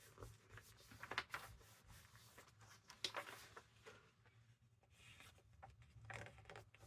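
Faint rustling of paper being handled and pressed onto a journal page, with a few light taps and scrapes.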